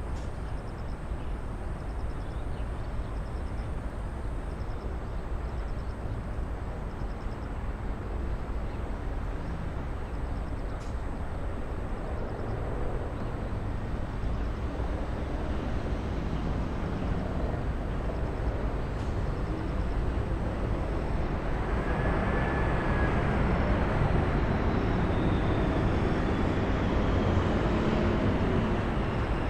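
Jet aircraft engines at an airport, a steady roar that grows louder over the second half, with a high whine coming in near the end and slowly falling in pitch as the aircraft passes.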